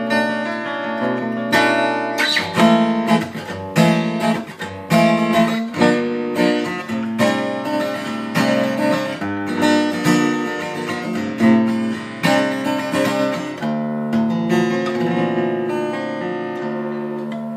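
Seagull Entourage Mini Jumbo Rustic acoustic guitar, with a spruce top and cherry back and sides, played fingerstyle in a steady run of picked notes mixed with fuller strummed chords. It is tuned down a half step from standard for a beefier sound with its heavy 12-gauge strings.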